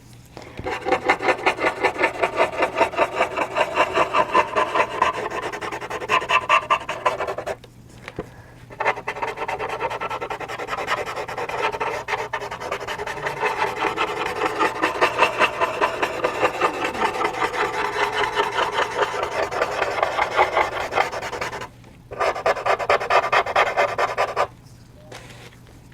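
Blending stump rubbed over charcoal on textured charcoal paper in rapid back-and-forth strokes, a steady scratchy rasp that pauses briefly twice.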